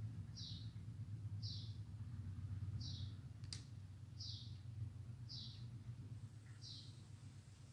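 Faint bird chirping: one short call about every second and a quarter, six in all, over a steady low electrical hum. A single sharp click comes about three and a half seconds in.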